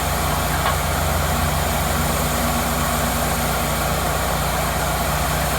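Cook's MP-32 sawmill engine running steadily at an even speed.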